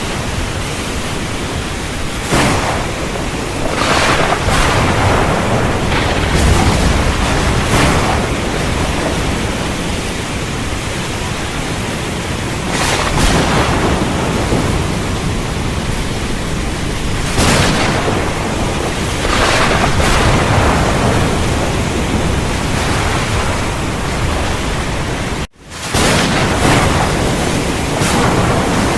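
Heavy rain pouring steadily, with thunder rumbling low underneath and the downpour surging louder every few seconds. The sound drops out for a split second about three-quarters of the way through.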